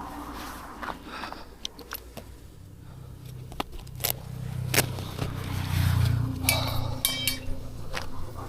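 Clicks and scrapes of things being handled, as when searching for a water bottle, with a vehicle's low rumble swelling in the middle and fading again.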